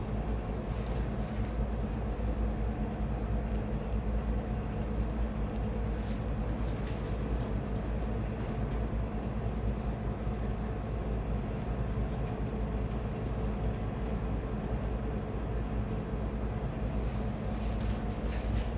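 Marine diesel engine running at a steady drone, a low rumble with a constant hum, with faint high squeaks now and then.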